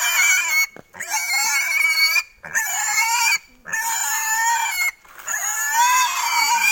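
A restrained pig squealing during a castration demonstration, in about five long, loud, high-pitched screams with short breaths between them.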